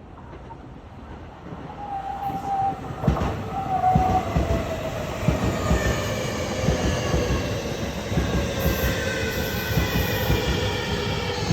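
Sotetsu 21000 series electric train pulling in and braking to a stop. Its motor whine glides slowly downward in pitch, over wheels clacking on the rails, and grows louder about two seconds in as the train comes close.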